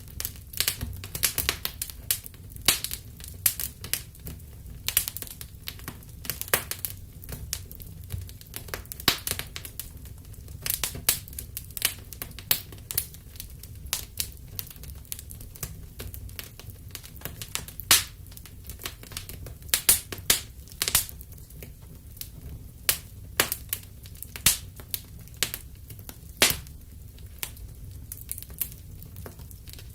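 Wood fire crackling in a fireplace: irregular sharp pops and snaps, several loud ones standing out, over a steady low rumble of the flames.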